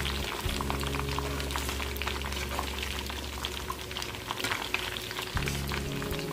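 Breaded chicken fillets shallow-frying in hot oil in a pan, a steady sizzle full of fine crackles, over background music.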